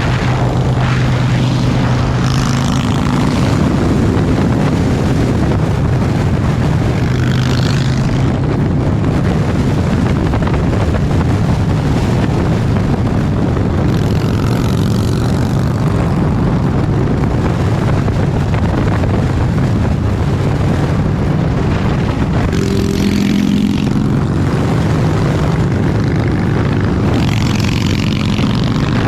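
Harley-Davidson Breakout's V-twin engine running at a steady cruise while riding, with a steady rush of wind on the microphone.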